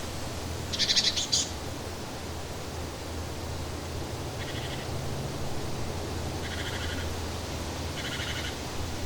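Nature ambience: a steady hiss with a low hum under it, and short trilled animal calls that repeat every second or two, the loudest and highest about a second in.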